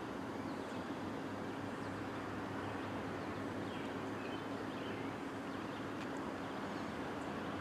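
Diesel locomotive idling steadily, a low even hum with a constant drone, with a few faint high chirps over it.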